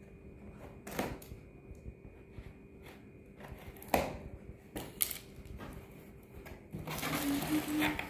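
Packing material being handled and pulled apart during an unboxing: scattered crackles and crunches, a few sharp knocks, turning into dense crackling near the end.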